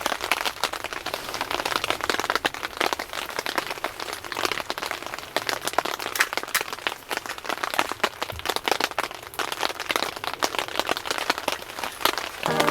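Rain falling on tent fabric: a dense, steady crackle of many small drop impacts.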